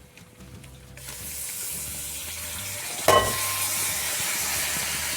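Boiled soya chunks going into hot coconut oil and fried masala in a heavy-bottomed pan: sizzling starts about a second in and stays steady. A single sharp metallic clink comes about three seconds in.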